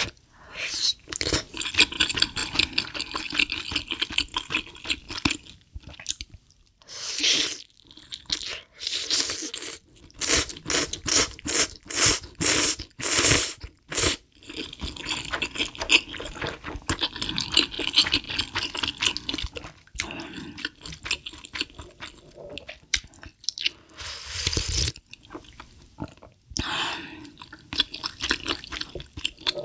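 Close-miked eating: chewing and crunching food, with a run of louder, sharper crunches around the middle.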